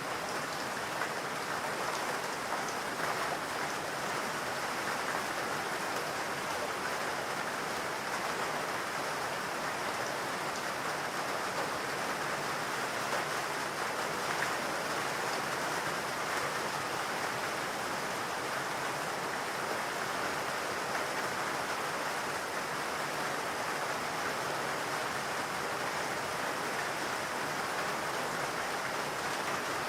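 Steady rain falling, an even hiss with fine patter of drops that stays constant throughout.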